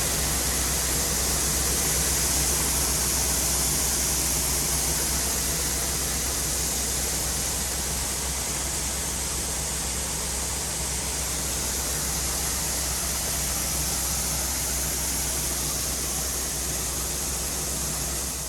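Soybeans being unloaded from a grain truck into the bin: a steady rush of pouring grain over a low, steady engine hum.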